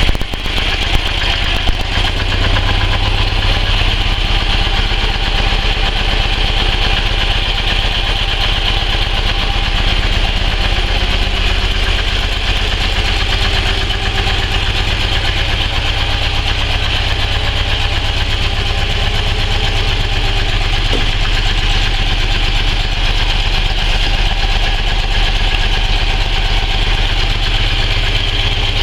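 Custom Soviet-style flat-twin (boxer) motorcycle engine of a Ural or Dnepr idling steadily, coming up slightly about two seconds in and then holding an even beat.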